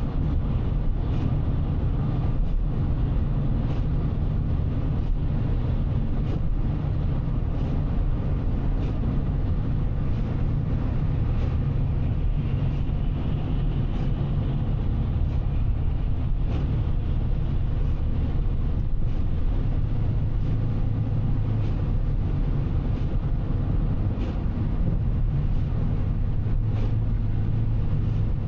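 Steady road and engine rumble heard from inside a car driving on a highway, with faint regular ticks about every second and a quarter.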